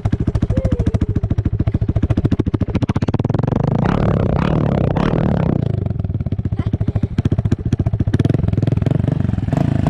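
Dirt bike engine running, warming up to heat the oil before an oil change, with a quick rapid firing beat; it rises briefly in pitch about four seconds in, then settles back.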